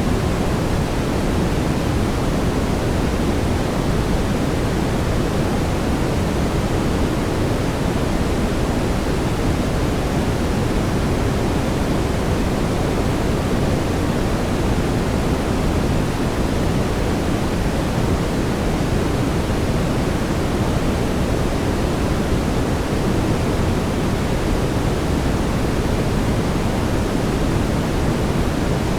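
Steady synthetic brown noise: an even, deep hiss, heaviest in the low range and thinning toward the top, with no changes.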